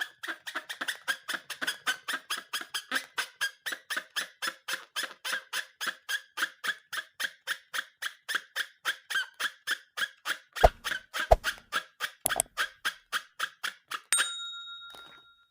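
A long run of short squeaks repeated evenly at about five a second, with two low thumps about 11 seconds in. Near the end the squeaks stop and a steady high tone sounds and fades away.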